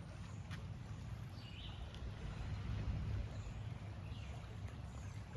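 A few faint, short bird chirps over a steady low outdoor rumble.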